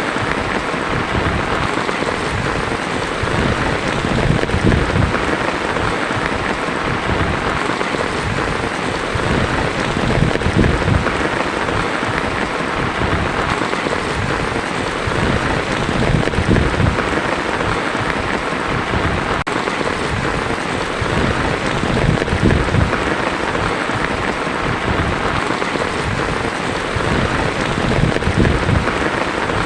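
Heavy rain drumming steadily on a tin roof, a dense, unbroken patter.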